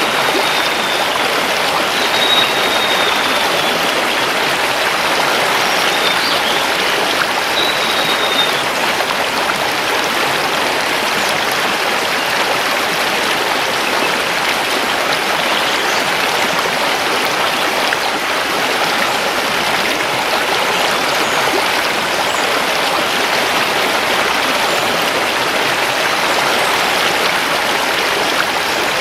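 Mountain river rushing steadily over stones. A few faint, short high bird notes sound over it in the first several seconds.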